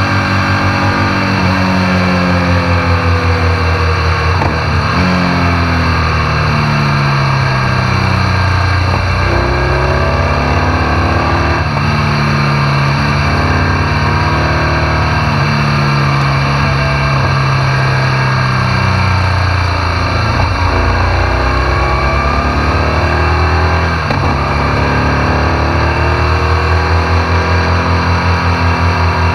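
BMW R1200 GS Adventure's boxer-twin engine running while the bike is ridden, its pitch falling and rising several times as it slows and picks up speed, with short breaks at gear changes. Steady wind and road noise run underneath.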